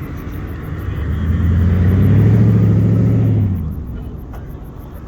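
A car or truck engine accelerating hard. It grows loud from about a second in, rising in pitch, holds, then drops away after about three and a half seconds.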